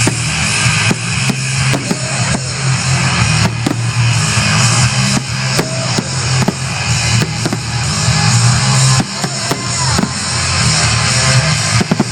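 Loud rock music with drums and guitar over outdoor speakers, with firework bangs and short whistling rockets popping through it at irregular intervals.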